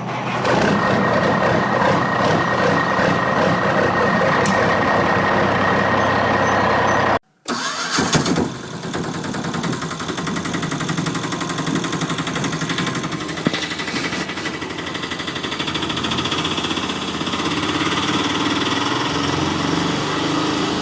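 A vehicle engine running steadily, cut off suddenly about a third of the way in and followed after a brief silence by another, noisier engine sound.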